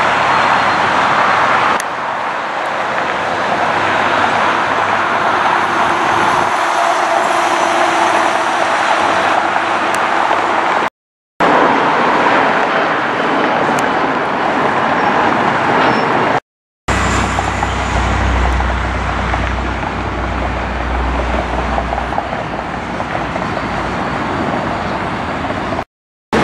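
Loud jet airliner engine noise across several spliced clips, separated by abrupt short cuts to silence. After the second cut a deep rumble joins the roar for a few seconds.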